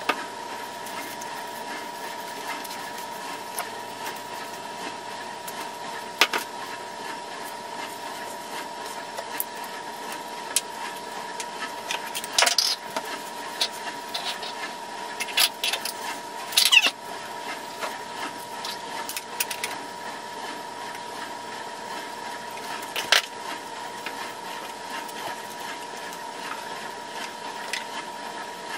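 Household cleaning sounds: scattered knocks and a couple of short hissing bursts over a steady electrical hum.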